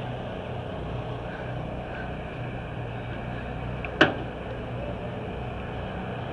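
An engine running steadily in a low hum, with one sharp, loud bang about four seconds in.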